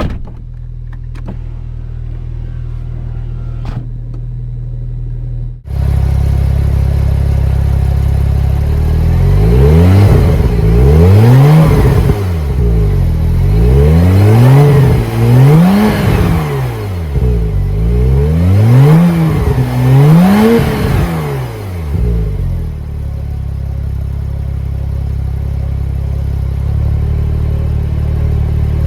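Porsche 911 Turbo (991) twin-turbo flat-six idling, then blipped about five times in quick succession, each rev rising and falling, before settling back to idle; the idle jumps louder suddenly about six seconds in, and another rev begins at the very end.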